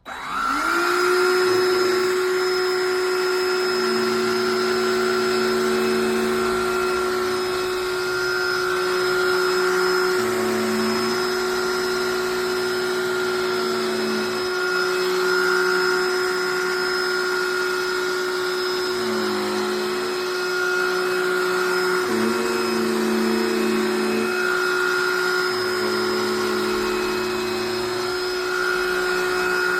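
Cordless handheld vacuum switching on and spinning up, then running with a steady motor whine. Its lower tone comes and goes every few seconds.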